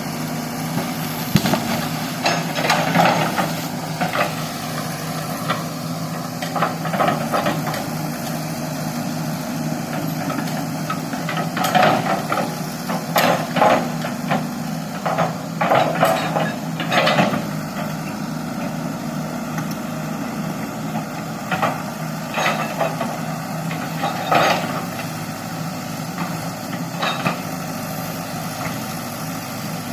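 Excavator's diesel engine running steadily, with irregular clanks and knocks from the machine at work, several in quick succession in the middle stretch.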